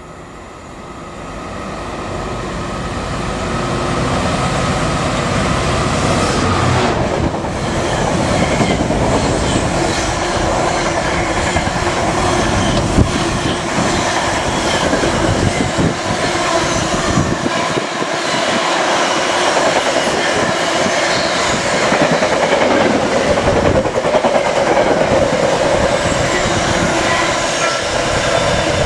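Freight train approaching and passing close by. It grows loud over the first few seconds, then a long string of container and flat wagons rumbles and clatters steadily past over the rail joints.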